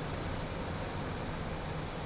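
Steady in-flight cockpit noise of a Beechcraft Premier I jet: an even rush of airflow over a low engine hum, with no change.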